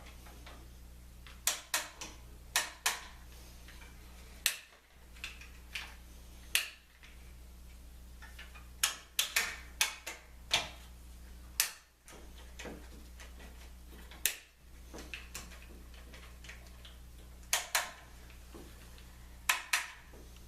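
Sharp, irregular clicks and knocks of woodworking clamps being handled and tightened on a glued lamination, some coming in quick pairs, over a steady low hum.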